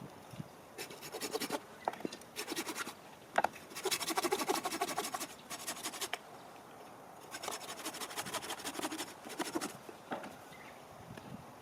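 Rasping, scraping noise in four bursts, the longest about two seconds.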